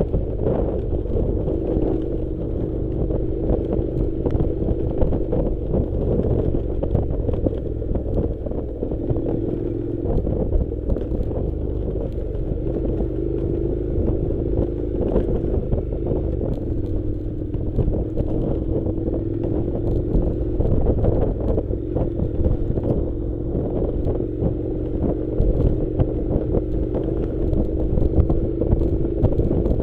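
Honda NC700's parallel-twin engine running at a fairly steady speed that drifts gently up and down, with wind buffeting the microphone and frequent knocks and rattles from riding over rough dirt track.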